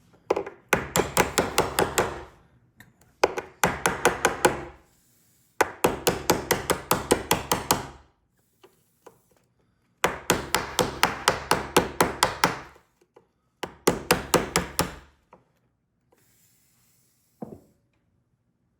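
Small hammer tapping quickly on a car door lock, about six light blows a second, in five runs of one to three seconds each, then a single tap near the end.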